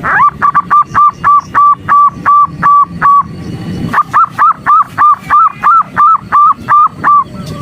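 Female zebra dove (perkutut) calling as a lure to stir up males: two runs of short, evenly spaced hooked notes, about four a second, with a brief pause between the runs.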